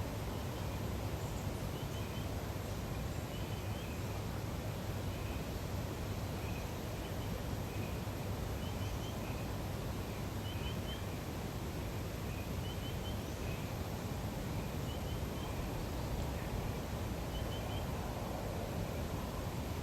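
A small bird repeating a short call of three quick high notes about every two seconds, over a steady low outdoor ambience.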